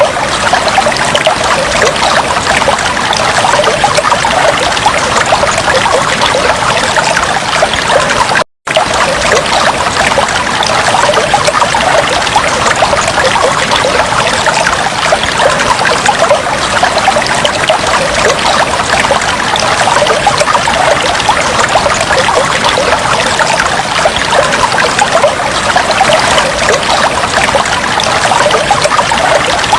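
Fish tank water trickling and splashing steadily, as from an aquarium filter's outflow. The sound drops out to silence for a split second about a third of the way through.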